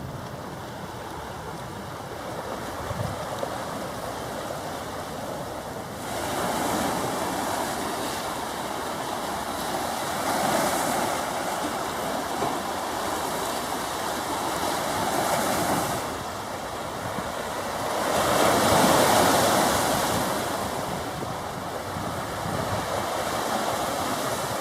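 Waves washing against the shore, surging in louder twice and then easing back.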